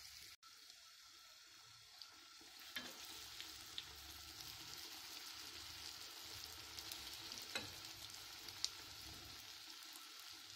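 Yeasted dough fritters (pişi) frying in hot oil in a pan: a steady sizzle, a little fuller after the first few seconds, with a few sharp pops.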